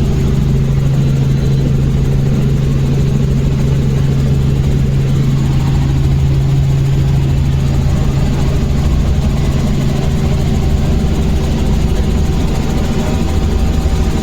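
Helicopter in flight, heard from inside the cabin: a steady, loud drone of engine and rotor with a strong low hum.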